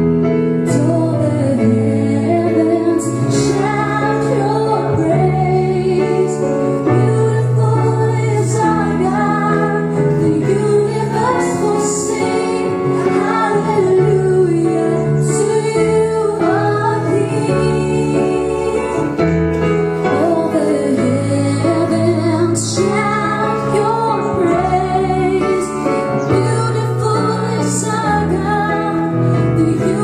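A woman singing a melody over instrumental accompaniment with held bass notes that change every second or two.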